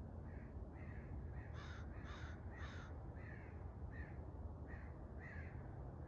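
A bird gives a run of about ten short, evenly spaced calls, the three in the middle loudest, over a faint steady low background hum.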